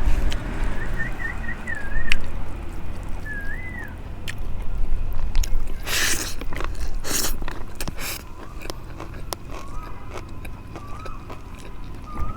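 Close-up eating sounds: biting and chewing through a meal of rice and fish curry, with sharp little clicks and a few louder crunches about six to eight seconds in. A bird chirps in the background in the first two seconds and again from about nine seconds on.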